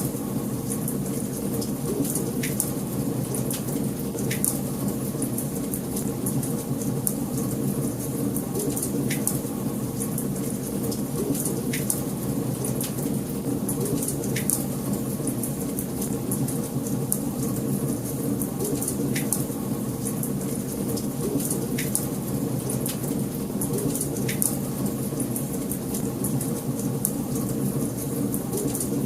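Wood fire burning in a fireplace: a steady low rush of flames with frequent sharp crackles and occasional louder pops a few seconds apart.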